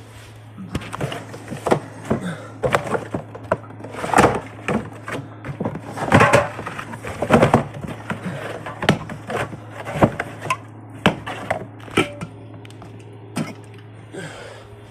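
Irregular knocks, taps and clatter of things being handled and set down, over a steady low hum.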